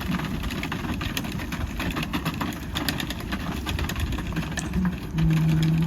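A vehicle engine idling with a fast, uneven clicking rattle over a low rumble; a steady low hum comes in about five seconds in.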